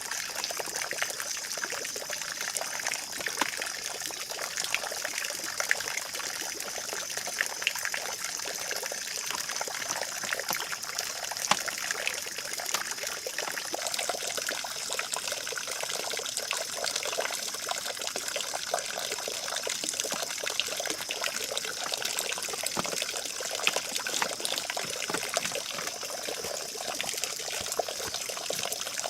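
Steady trickling water, like a small stream running, with faint scattered clicks over it.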